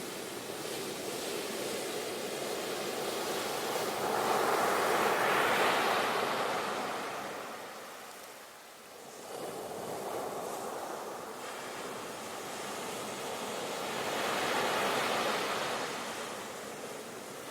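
Sea waves breaking and washing on the shore, the surf swelling twice with a brief lull between.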